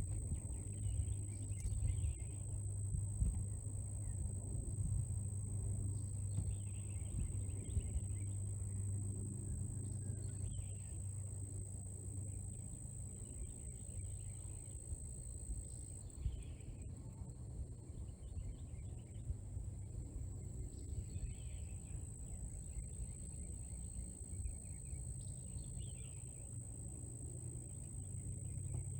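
Rural outdoor ambience: a steady, high-pitched insect trill throughout, short bird calls every few seconds, and a low steady hum underneath.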